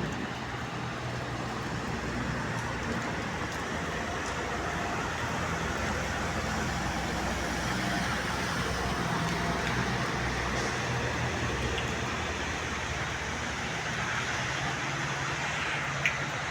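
Road traffic in the rain: vehicle engines humming and tyres hissing on wet road with the rain's steady noise, a little louder around the middle. A single sharp click near the end.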